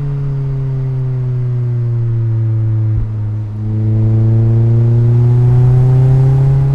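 Mazda MX-5's four-cylinder engine and exhaust heard on the move: the engine note sinks slowly for about three seconds, breaks off briefly, then climbs steadily and gets louder as the car accelerates.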